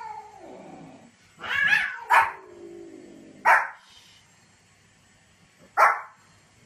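Small white spitz-type dog barking four times, in sharp yaps spaced unevenly, the first two close together and the last after a longer pause. Quieter, drawn-out whining calls falling in pitch come between the barks.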